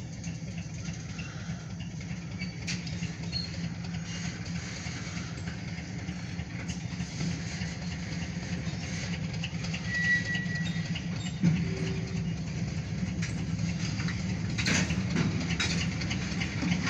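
Freight train approaching on the rail line, a steady low rumble, with wheel clacks building near the end as covered grain hopper cars roll into view.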